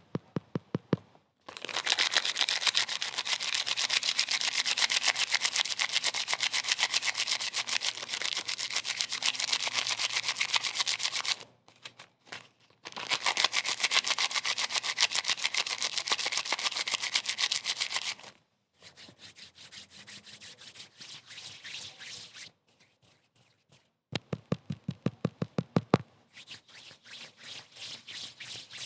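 Fast repeated rubbing strokes in stretches of several seconds, broken by short pauses. A run of evenly spaced, deeper taps comes near the end.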